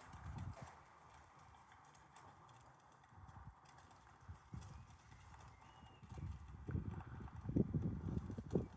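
Pigeons pecking and shuffling on a bird table: irregular low knocks and taps, sparse at first and busier over the last few seconds.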